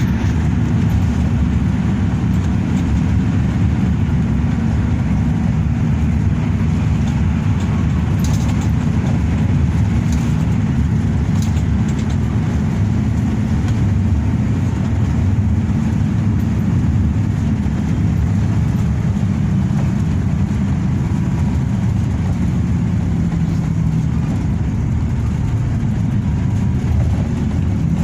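Hino RK8 bus under way: a steady low rumble of engine and road noise that holds even throughout.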